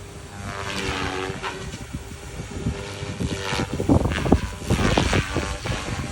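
Radio-controlled 3D helicopter in flight, its rotor and motor whine sweeping up and down in pitch as it manoeuvres.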